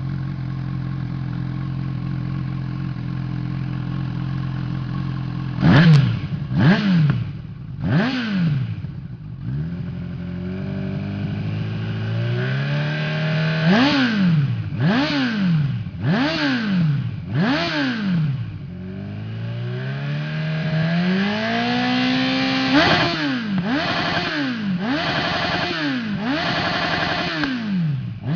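Honda CB1000R's inline-four engine breathing through a Hurricane aftermarket sport exhaust. It idles steadily for about six seconds, then is revved in a series of sharp throttle blips and a few slower climbs in revs that fall back to idle, ending in a quick run of blips.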